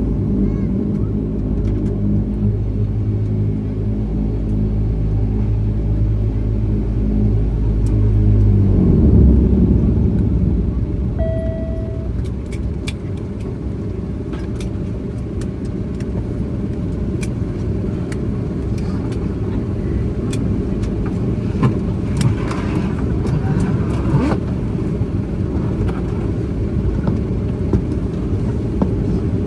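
Airliner engines heard from inside the cabin, running with a steady low hum that stops about nine seconds in, as the engines are shut down after landing. A rough rumble carries on after that, with a brief single tone a couple of seconds later and a few light clicks near the end.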